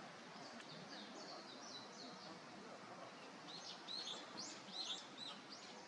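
A small songbird singing: a quick series of short, high, repeated notes, fainter at first, then louder and more varied from about three and a half seconds in, over steady outdoor background noise.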